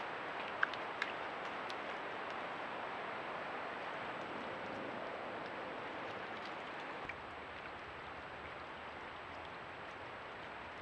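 Steady outdoor hiss picked up by a trail camera microphone by a creek, with two short sharp clicks about half a second and a second in.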